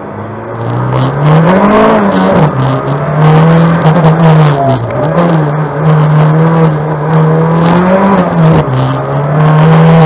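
Renault 5 GT Turbo's turbocharged four-cylinder engine driven hard, heard from inside the car, revving up and down with the throttle; its pitch climbs about two seconds in, then dips briefly about five and nine seconds in, with short sharp crackles over the engine note.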